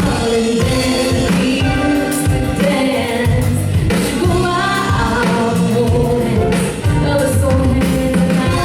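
A song performed live: singing over instrumental accompaniment, with a bass line that changes note every second or so.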